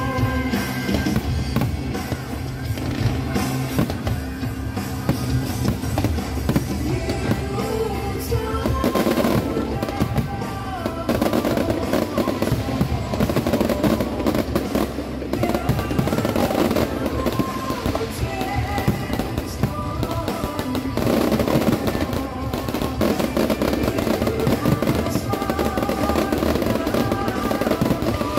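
A fireworks display: repeated bangs and crackling of aerial shells bursting, over loud music played through the show's outdoor speakers.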